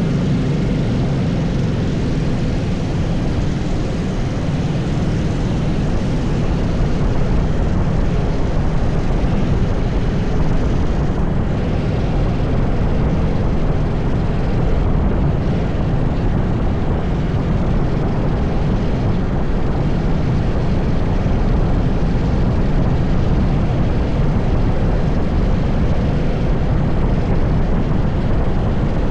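Onboard sound of a TS5 80cc racing kart running on track: a steady engine drone under heavy wind rumble on the microphone.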